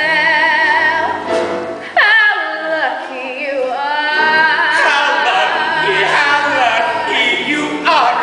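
Singing with musical accompaniment: long sung notes with a wide vibrato and sliding pitches, with more than one voice overlapping at times.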